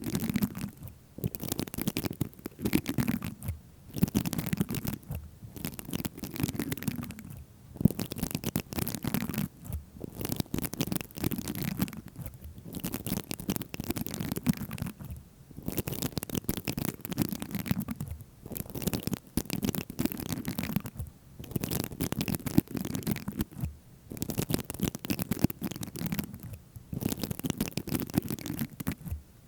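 Close-miked scratching and rubbing, ASMR trigger sounds, in repeated strokes of a second or two separated by short pauses.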